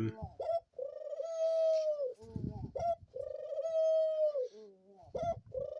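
A pet dove cooing in a repeated phrase, each a short note followed by a long, steady, low coo that drops at the end, three times over.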